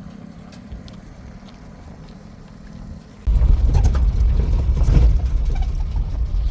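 Motor vehicle engine: a steady low hum, then about three seconds in a sudden, much louder low rumble.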